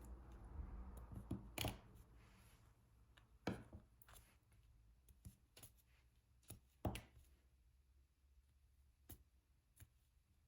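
Diamond painting pen tapping resin drills onto the sticky canvas: quiet, irregular clicks and taps, about eight in all, two of them louder than the rest.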